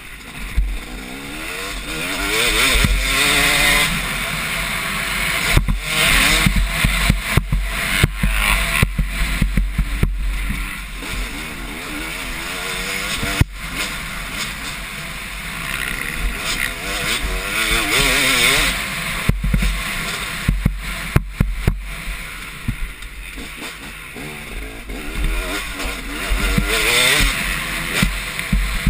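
Motocross bike engines, two-stroke dirt bikes, revving up and down as riders race around the track, swelling as bikes pass close several times and fading between.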